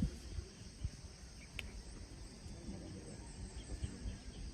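Insects chirring steadily in the background, a constant high-pitched hiss, with a single faint tick about a second and a half in.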